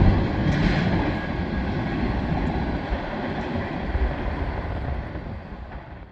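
CSX freight train rolling past at speed, a steady rumble of wheels on rail that fades away over the last couple of seconds.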